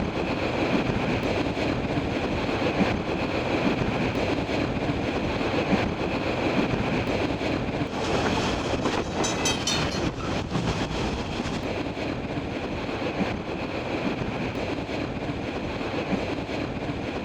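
Train running along the track with a steady rumble and faint clickety-clack of the wheels. A brief high-pitched squeal comes about nine seconds in.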